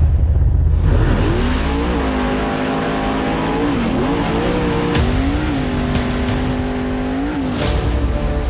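Mega truck engine revving hard under heavy low rumble, its pitch climbing, holding and dropping back several times as it pulls, with a few sharp cracks along the way.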